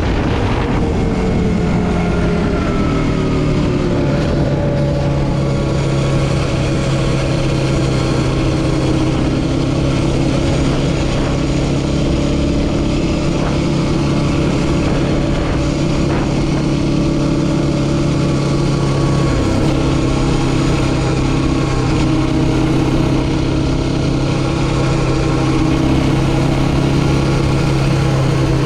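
Yamaha Raptor 700R quad's single-cylinder four-stroke engine running. Its pitch falls over the first few seconds as it comes off the throttle, then holds steady.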